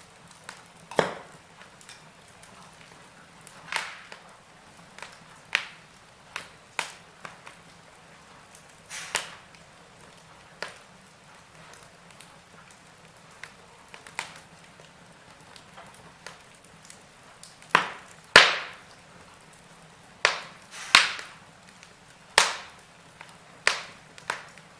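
Wood fire crackling: irregular sharp pops and snaps over a faint steady hiss, with a cluster of louder pops in the last third.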